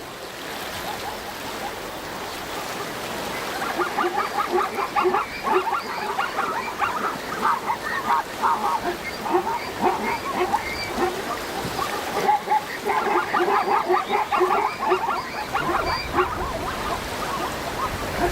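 A herd of zebras and wildebeest calling: many short calls overlapping into a cacophony of cries, which thickens from about three and a half seconds in.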